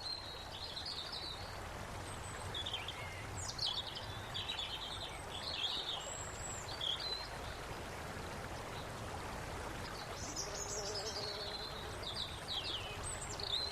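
Several birds chirping and trilling in scattered bursts, with quieter gaps, over a steady background hiss of outdoor noise.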